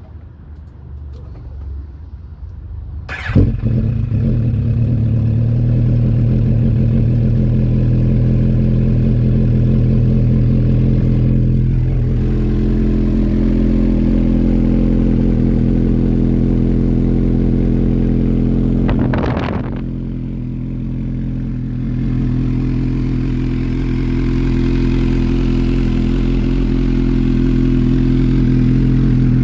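2006 MV Agusta F4 1000S inline-four motorcycle engine with a BODIS aftermarket exhaust starting up: it catches about three seconds in with a sharp bang, then idles steadily. A short clack comes about two thirds of the way through, after which the idle is slightly quieter for a couple of seconds.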